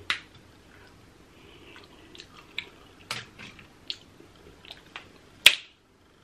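Close-up eating sounds of a person working through crab: scattered short wet clicks and smacks of chewing, with one loud sharp snap about five and a half seconds in.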